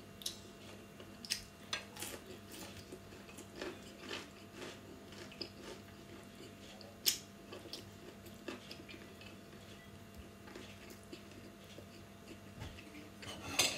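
A person chewing and biting raw vegetables: soft, scattered crunches and mouth clicks, with one sharper click about seven seconds in.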